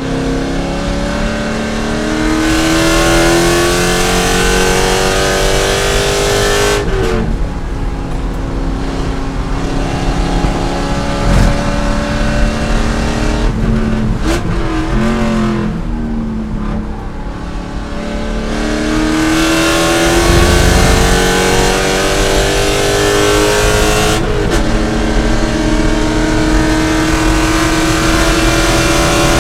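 C5 Corvette race car's V8 engine under hard acceleration, its note climbing steadily through the gears. There are sharp shift breaks about seven seconds in and again near the end. In the middle the note drops and wavers briefly before climbing again.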